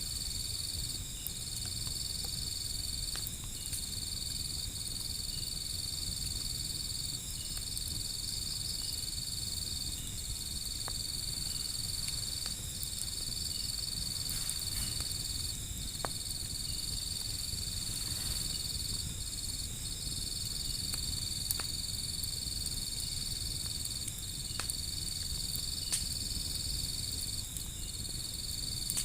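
Insects trilling in a steady high-pitched drone that breaks off briefly every second or two, over a low steady rumble, with a few scattered sharp pops and crackles from a fire.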